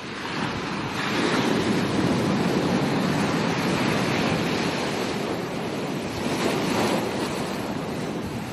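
Ocean waves breaking on a beach: a wash of surf that swells about a second in, stays up, swells again briefly near the end, then eases off. Some wind on the microphone.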